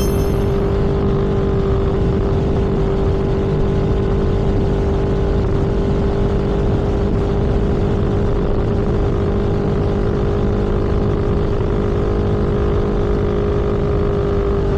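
A vehicle cruising at a steady speed: the engine holds one even pitch under a constant rush of wind and road noise.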